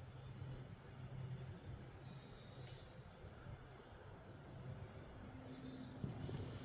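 Insects chirping outdoors, a faint, steady high-pitched trill that runs on without a break.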